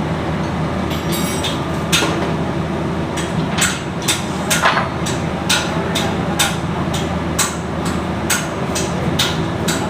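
Repeated sharp knocks, at first scattered, then regular at about two a second from about three and a half seconds in, over a steady low hum.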